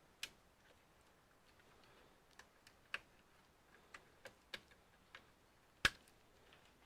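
Scattered small clicks and taps of hand tools and computer parts being handled, irregularly spaced, with the sharpest click a little before six seconds in.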